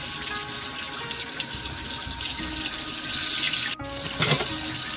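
Cold water running steadily from a kitchen tap into a sink onto a scalded sea bream head as it is rubbed by hand to remove the remaining scales. The rush of water breaks off for an instant just under four seconds in.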